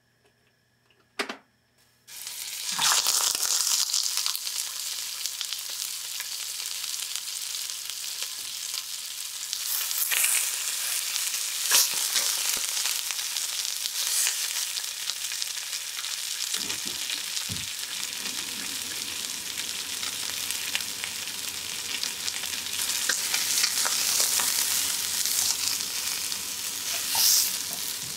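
Slabs of raw shark meat sizzling as they fry in hot oil in a nonstick frying pan. The sizzle starts suddenly about two seconds in, after a single click, as the meat goes into the oil, then runs steadily with occasional louder spits.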